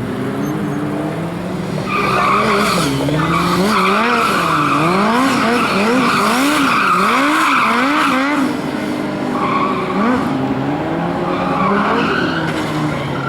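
Drifting motorcycle: tyres squeal steadily through a long slide, while the engine revs rise and fall about twice a second as the throttle is worked. The squeal drops away about eight seconds in and returns for a shorter slide near the end.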